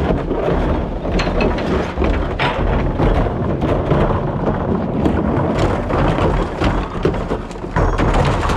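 Rear-loader recycling truck at work: a steady low rumble with dense, continuous rattling and clattering.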